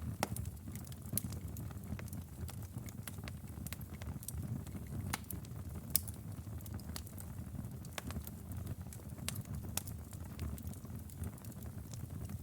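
Outdoor wood fire crackling: a steady low rumble of burning under many irregular sharp pops and snaps, one louder pop about halfway through.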